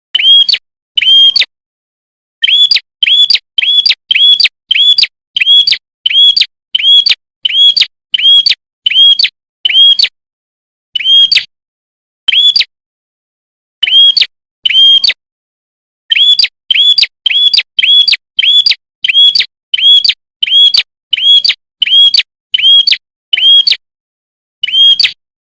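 A prenjak kepala merah songbird giving loud, identical short chirps, about two a second, in runs broken by brief pauses. Each chirp is sharp and high, rising and falling quickly.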